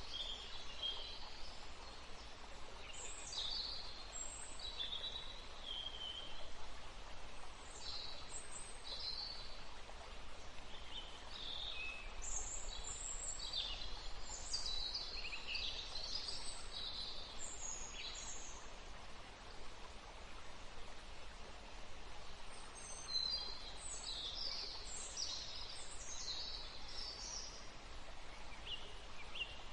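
Small songbirds chirping and calling in quick, high twittering bursts, over a steady background hiss. The calls are busiest about halfway through and again near the end.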